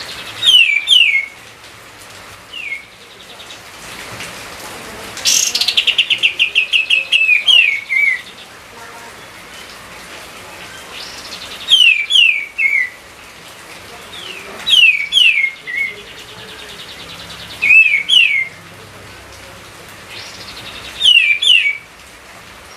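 A songbird singing phrases of short, clear, falling whistled notes, repeated every three seconds or so. About five seconds in comes a longer run of quick repeated notes, and there is a faint steady hiss between the phrases.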